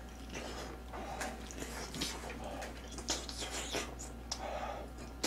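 Close-miked eating: a person chewing and lip-smacking a mouthful of spicy chicken and potato stew, with irregular short wet mouth clicks.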